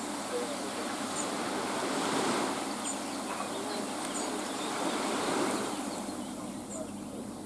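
Sea surf washing onto a shore: a steady rushing noise that swells a little twice.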